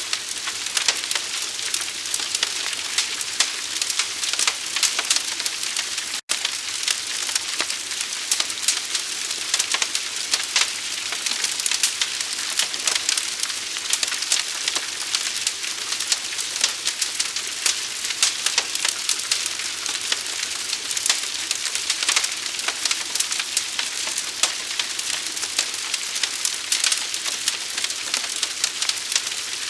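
Forest fire crackling: a steady hiss thick with sharp pops and snaps. It cuts out for an instant about six seconds in.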